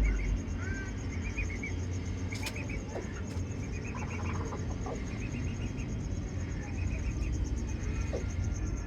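Birds chirping in short quick runs of four or five notes, over a steady faint high buzz and a low rumble. A single sharp click comes about two and a half seconds in.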